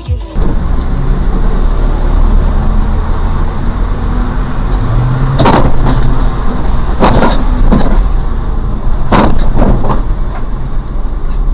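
Car driving: steady low engine and road noise, with several sharp knocks or clicks, in two pairs and one single, in the middle stretch.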